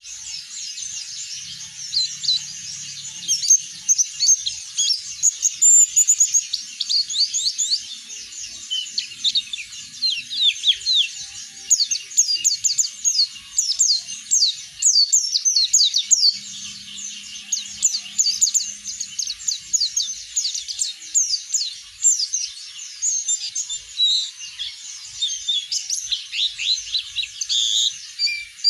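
White-eye (pleci) singing a long unbroken song of rapid, high, sweeping chirps and twitters, many notes a second without a pause.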